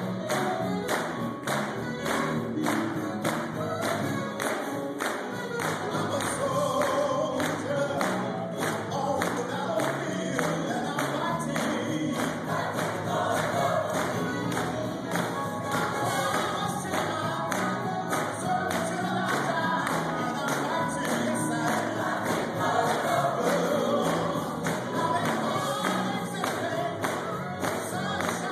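Gospel choir singing over a steady beat of sharp, evenly spaced strikes.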